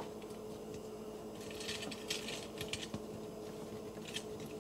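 Plastic joints and parts of a Transformers action figure clicking and scraping as it is turned and folded by hand, in light scattered clusters about a second and a half in and again near four seconds.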